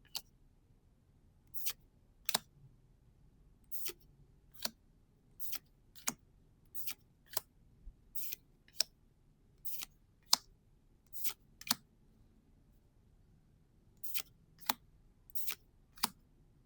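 About twenty short, crisp papery snaps and clicks at irregular intervals, often in pairs: Gundam trading cards being flicked over one at a time from a freshly opened booster pack.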